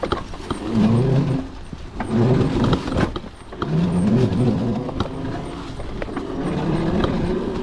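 Modified Razor MX650 electric dirt bike's motor whining up in pitch about four times as the rider pulls away on the trail, over rumbling and knocks from the ride. It sounds bogged down: with the small sprocket the gearing is too tall, so the motor pulls too much current without enough torque.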